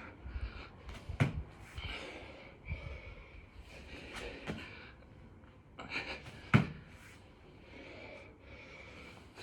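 A man breathing hard and loudly through six-count burpees, with thuds of hands and feet hitting the floor; the loudest thud comes about six and a half seconds in.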